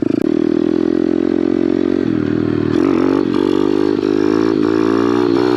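Kawasaki pit bike's small single-cylinder four-stroke engine running under throttle during a wheelie attempt. It holds steady, drops off briefly about two seconds in, then revs up again with the pitch wavering as the throttle is worked.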